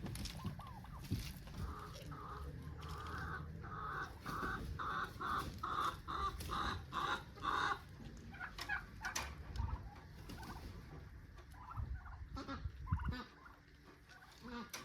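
Chickens clucking, with a run of about a dozen short calls at roughly two a second in the middle, over a low rumble.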